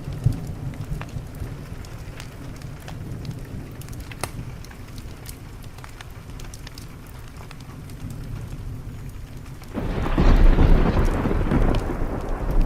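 Thunderstorm ambience: steady rain on a window with scattered sharp crackles over a low rumble, then a loud peal of thunder breaks out about ten seconds in and rolls on.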